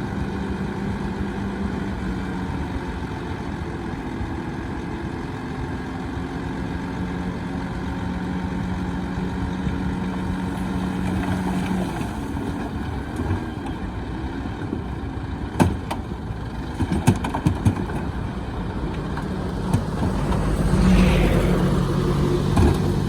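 Heavy diesel engine of earthmoving machinery running steadily, with a few sharp knocks and clanks about two-thirds of the way through. The engine pulls harder and louder near the end.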